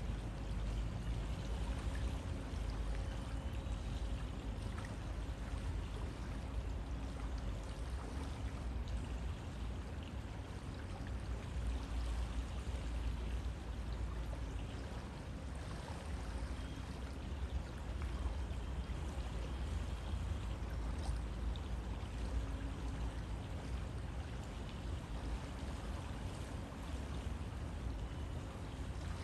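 River water flowing steadily, a continuous rush of water.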